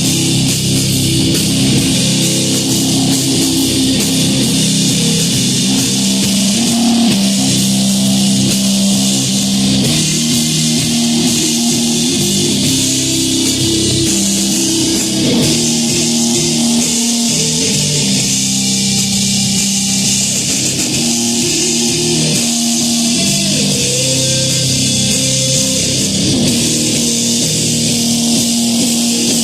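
Live rock band playing loud instrumental rock: electric guitars holding long low notes with occasional pitch bends over a drum kit with constant cymbal wash.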